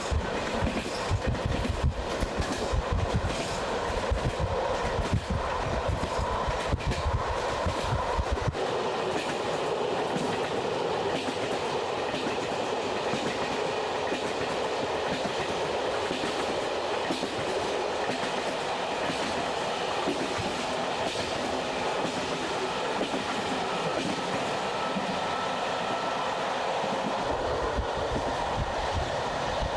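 Passenger train running along the track, a steady rushing with the clicking of wheels over rail joints. A deep rumble drops away about eight seconds in and comes back near the end.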